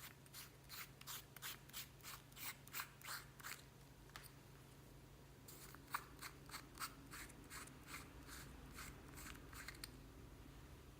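Hands squeezing clear slime mixed with foam beads (floam), giving quick runs of crisp crackling pops and clicks, about three or four a second, in two stretches with a short pause between.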